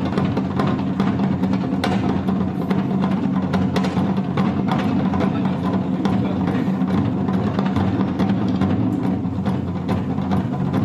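Traditional Japanese music with drums and percussion playing, with many sharp knocks.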